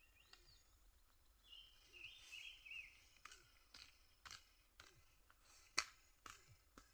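A bird sings a short warbling phrase, followed by a run of about eight sharp ticks or knocks, roughly one every half second, the loudest a little before the end. The sound is faint overall.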